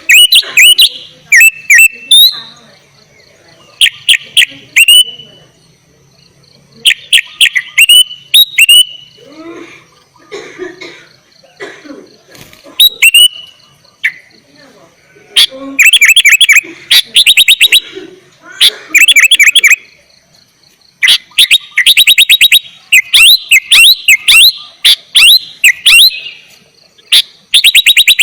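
Sooty-headed bulbul (kutilang) singing loudly in a lively, full song. It starts with short whistled phrases of sharp sweeping notes, then from about halfway through it sings long, fast runs of repeated notes. A faint, steady high tone runs underneath.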